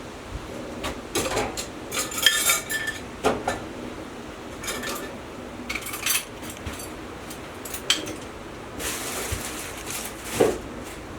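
Irregular metallic clinks and knocks, a few of them briefly ringing, like metal objects being handled and set down.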